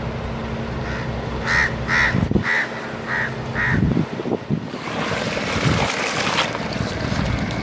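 A bird calling in a short run of about five brief, evenly pitched calls, with a low steady hum underneath. From about five seconds in, a steady rushing noise takes over.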